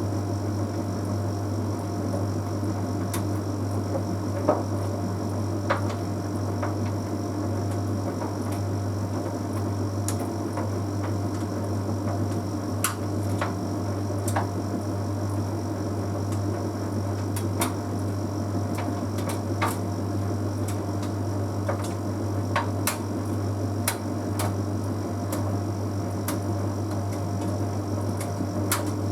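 Bosch Series 6 WQG245R9GB heat pump tumble dryer running mid-cycle: a steady low hum, with irregular sharp clicks and taps from the load tumbling in the drum.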